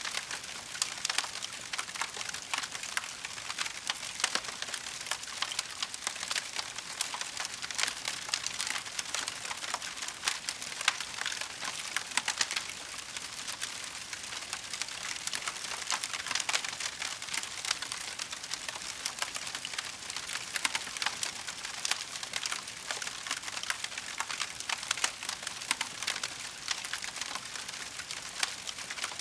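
Wood fire crackling in a fireplace: a dense, unbroken stream of small pops and snaps with a few sharper cracks scattered through.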